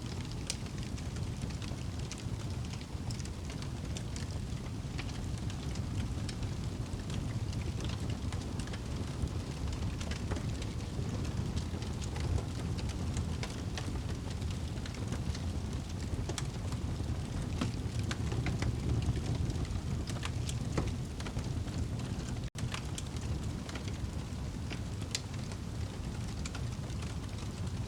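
Wood fire burning in a fireplace: a steady low rumble of flames with frequent small crackles and pops scattered throughout. The sound cuts out for an instant near the end.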